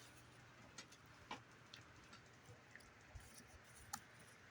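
Faint, scattered clicks and taps of trading cards being handled and flipped over, about five in a few seconds against near silence.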